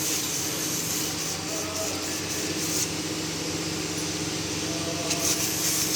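Steady mechanical hum with an even hiss over it.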